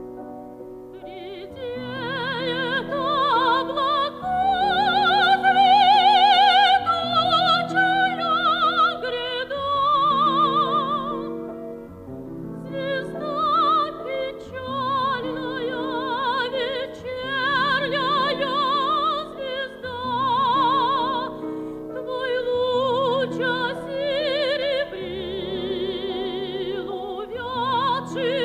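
Operatic soprano singing a Russian art song with wide vibrato, accompanied by piano. The voice comes in about a second in over the piano's held chords.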